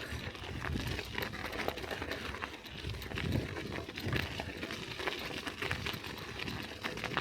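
Bicycle rolling over snow: the tyres crunch and crackle, with many scattered clicks over a steady low rumble.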